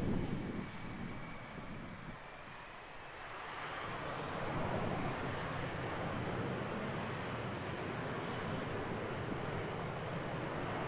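Avro RJ85's four turbofan engines spooling up: a thin whine that rises slightly, then the broad jet noise swells about three or four seconds in and holds steady as thrust builds for takeoff. A brief low thump sits right at the start.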